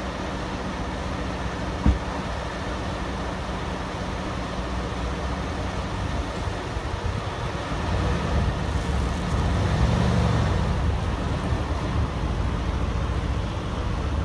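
The twin-turbo V8 of a 2017 Mercedes-AMG C63 S sedan idling steadily, with a car door shutting once about two seconds in. The engine note swells from about eight seconds in as the car begins to move off.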